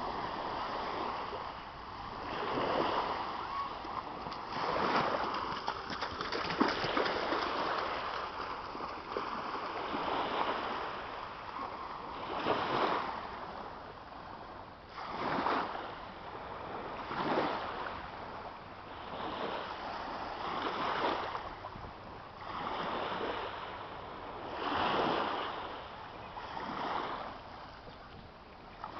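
Water splashing and washing in regular surges about every two seconds.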